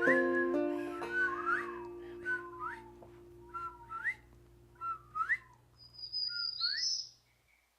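Whip-poor-will calls, a short note then a sharply rising one, repeated about once a second five times, while the last banjo chord of the song dies away. A higher thin tone joins the final call near the end, and the sound then stops.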